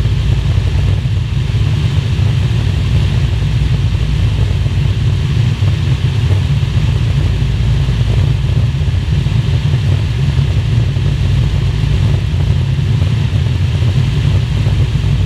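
Piston aircraft engine droning steadily and loudly at constant power, as heard on board in flight.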